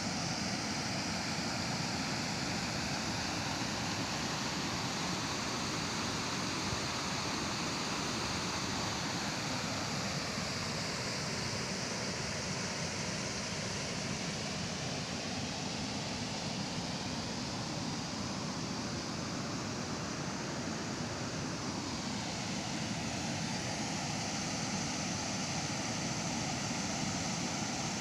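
Waterfall: a steady rush of falling water, its tone shifting slowly.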